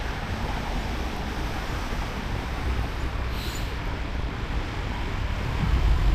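Steady wind and road rumble on the microphone of a moving e-bike, with a brief hiss about three and a half seconds in.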